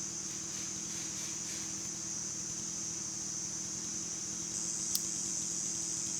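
Insect chorus: a steady high, shrill drone that gets louder about four and a half seconds in, with a faint low hum underneath. There is a single sharp click shortly after the drone gets louder.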